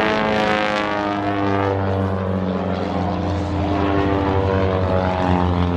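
Propeller aircraft engine drone, steady and loud, as the plane flies past.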